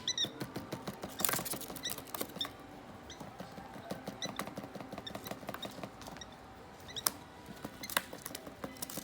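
African lovebird chicks giving many short, high cheeps, over a patter of small clicks and scratches from the birds moving about and pecking.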